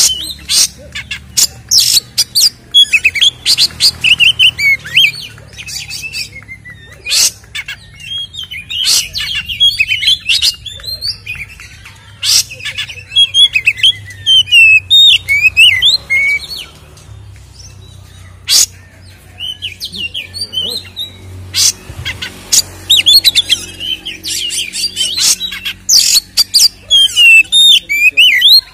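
Oriental magpie-robin (kacer) singing loudly in bouts of fast whistled phrases mixed with harsh rasping notes and sharp clicks, with short pauses between bouts.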